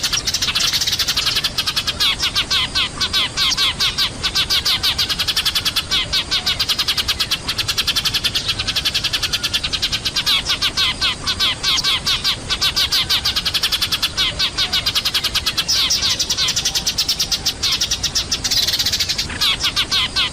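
A noisy chorus of Eurasian tree sparrows chirping, played as a lure call to draw sparrows down. Quick, dense chirps follow one another without a break.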